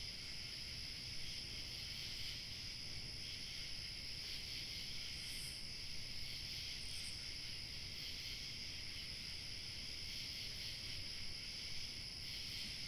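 Crickets chirping in a steady, unbroken chorus, with a thinner, higher insect trill above it and a low rumble of light wind underneath.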